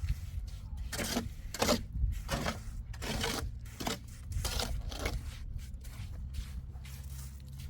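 Cement mortar being scraped and spread with masonry tools in a series of short, irregular strokes, over a steady low hum.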